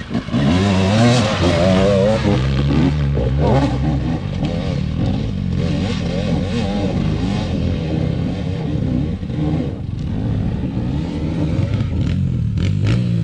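Enduro motorcycle engine running, its revs rising and falling unevenly.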